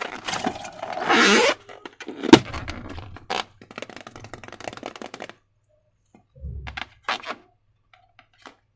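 Slime and balloons being handled: scraping and rustling, a single sharp crack about two seconds in, then scattered small clicks and scrapes and a dull thud near the end.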